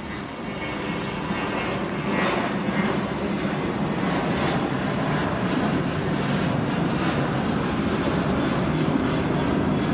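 Jet airliner's engines at takeoff power, climbing out overhead: a steady jet roar that grows louder over the first two seconds, then holds.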